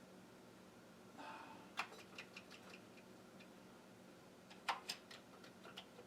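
Typing on a Commodore 64 keyboard: two short runs of quick, irregular key clicks, one about two seconds in and a louder one near the end.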